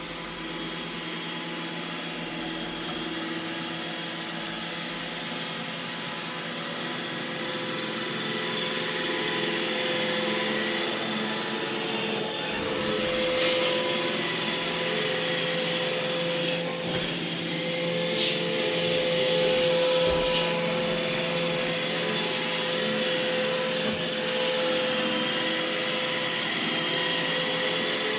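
iRobot Roomba E6 robot vacuum running: a steady whine from its motors and suction fan with a brushy hiss. It gets somewhat louder partway through, with a few brief sharp scrapes or knocks.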